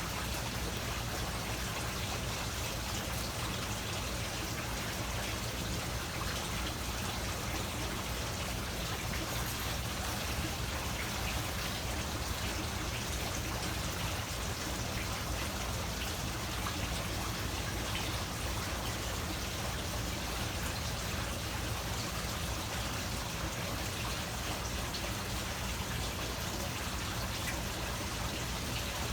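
Steady trickling of running water, continuous and even with no breaks.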